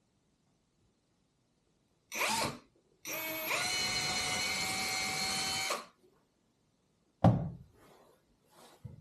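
A small electric power-tool motor runs twice: a short burst, then a steady run of about three seconds that stops abruptly. A sharp knock follows about seven seconds in.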